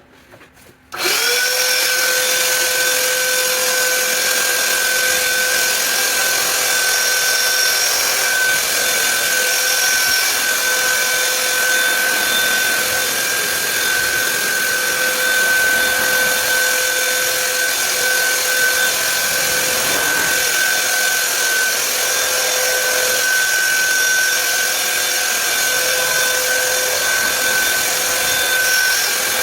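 An electric power tool's motor switches on about a second in, spins up quickly and runs at a steady speed with a constant high whine.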